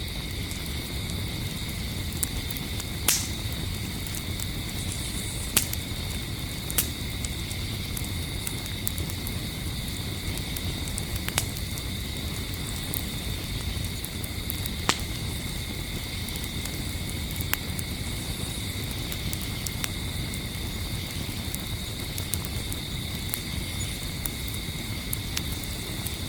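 Campfire burning, a steady low rush of flames with sharp wood pops every few seconds. Crickets trill steadily in the background.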